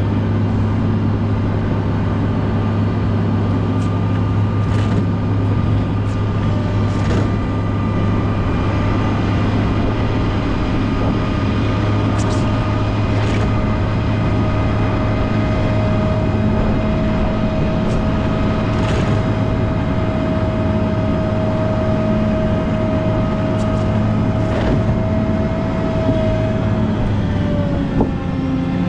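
Volvo L90H wheel loader running steadily under load, a low engine hum with a steady whine over it whose pitch dips near the end as the machine eases off. Occasional short clicks and knocks.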